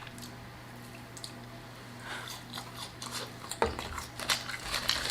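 Close-miked eating: chewing and mouth sounds with small clicks and rustles of fries being picked up, growing busier in the second half, over a steady low hum.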